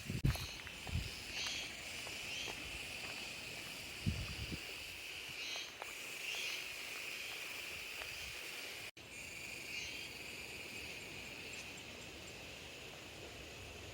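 Insects calling steadily in a continuous high buzz, with a few short higher chirps over it and a few low bumps in the first few seconds.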